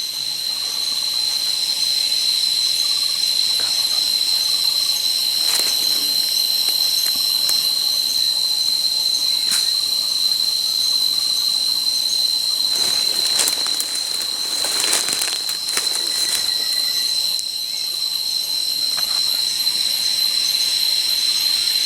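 A steady, high-pitched insect drone with a pulsing texture above it. Now and then there are a few sharp crackles, bunched together about two-thirds of the way through.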